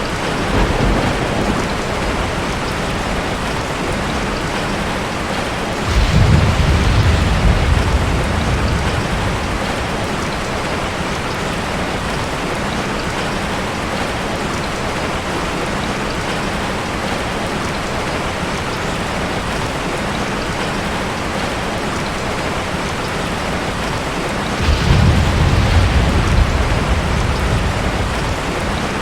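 Steady rain, with two low rumbles of thunder: one about six seconds in and another near the end, each starting suddenly and fading over a few seconds.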